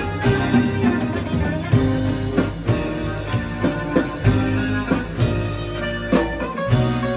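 A live band playing an instrumental passage of a ballad between sung lines: guitar over bass and drum kit, with regular soft drum strikes.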